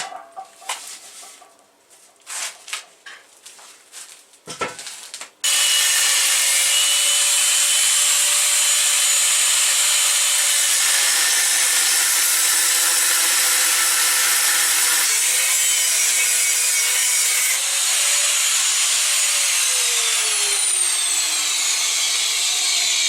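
Handling clicks, then an angle grinder with a cut-off disc starts about five seconds in and cuts steadily through steel, a loud hissing screech with a steady whine. Near the end the whine drops in pitch as the disc loads up in the cut.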